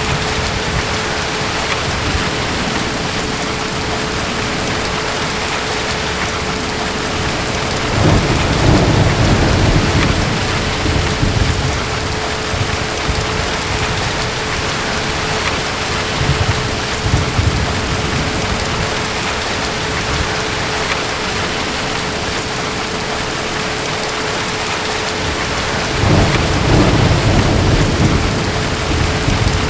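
Steady heavy rain with distant thunder rumbling low, swelling about eight seconds in, more faintly in the middle, and again near the end.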